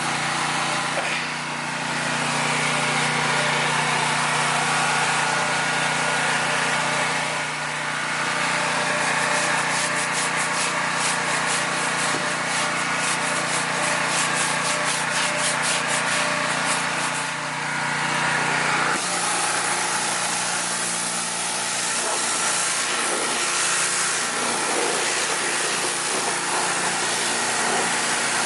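Pressure washer running steadily: a motor hum under a hiss. In the middle comes a stretch of fast, even rubbing strokes. About two-thirds of the way through, the motor's pitch drops.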